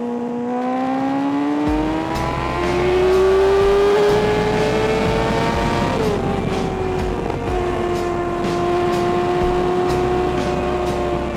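Kawasaki ZX-6R 636 inline-four engine pulling under acceleration, its note rising over the first few seconds. About six seconds in there is a short drop in pitch, and then the engine holds a steady cruise. A low rumble of wind on the microphone sits under it from about two seconds in.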